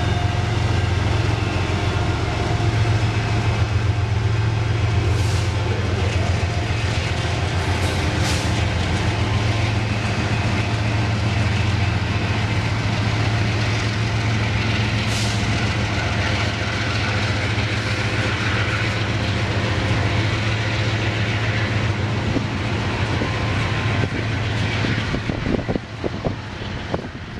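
Train on the move: a diesel locomotive's engine drones steadily under the rail noise, with a few brief high squeals from the wheels.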